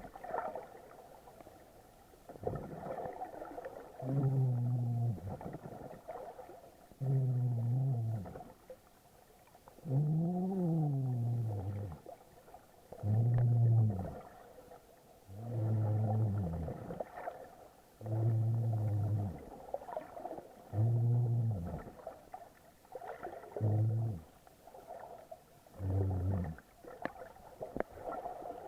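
A snorkeler breathing through a snorkel, heard underwater: about ten low, droning breaths, one every two to three seconds, each lasting a second or so.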